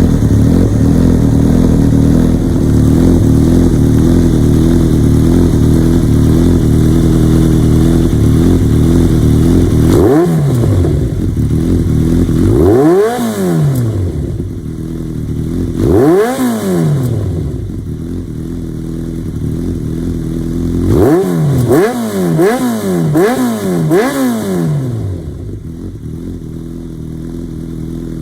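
Yamaha XJR1300's air-cooled inline-four, through an Asahina full exhaust system, idling steadily and then blipped on the throttle. It gives single revs about ten, thirteen and sixteen seconds in, then a quick run of about five short revs. Each rev rises and falls in pitch and drops back to idle.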